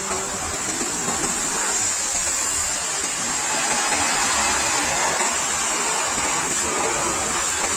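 Pressure washer spraying a motorcycle, a steady hiss of water jet and spray.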